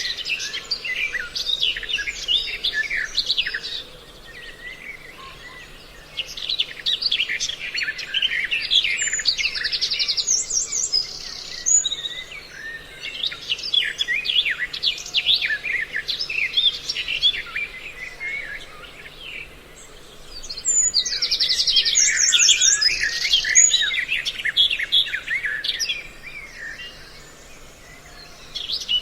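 A dense mix of several birds' calls, rapid chirps and quick trills coming in bouts of a few seconds with short lulls between, from a recording made to lure birds.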